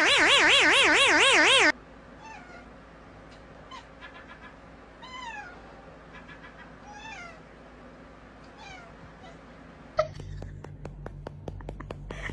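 A loud warbling electronic sound effect cuts off abruptly under two seconds in. Then a cat gives several faint, short, falling meows, about one a second. Near the end comes a quick run of clicks over a low hum.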